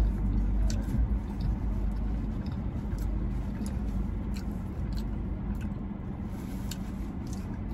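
Chewing and soft mouth clicks from people eating glazed donuts, over a steady low rumble inside a car cabin.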